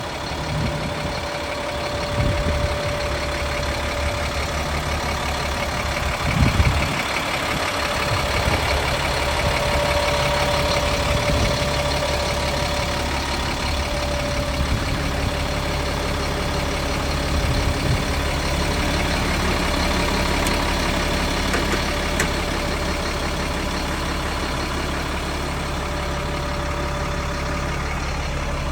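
Caterpillar 3126 inline-six diesel of a 2000 Stewart & Stevenson M1085A1 5-ton 6x6 truck idling steadily, with a brief louder thump about six and a half seconds in.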